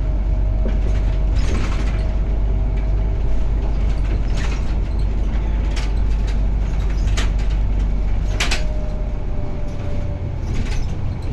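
Ride noise inside a bus on a very bumpy road. There is a steady low engine and road rumble, with about half a dozen sharp knocks and rattles from the body as it hits bumps, and a thin steady whine underneath. The rumble eases near the end.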